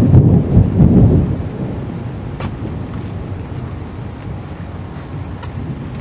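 Thunder rumbling loudly, dying away after the first second or so into a steady hiss of storm noise.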